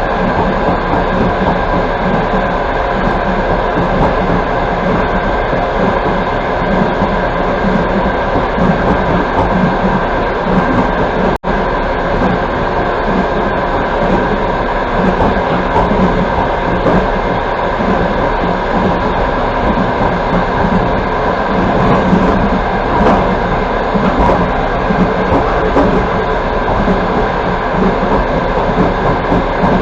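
Passenger train running at speed, heard from inside the coach: a steady rumble of wheels on rails with a constant hum. The sound drops out for an instant about eleven seconds in.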